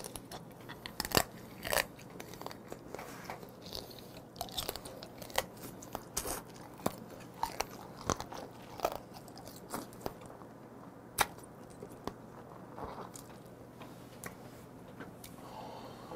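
Close-up eating sounds: chewing and sucking the meat out of pieces of raw flower (gazami) crab, with irregular small clicks and crackles of shell throughout.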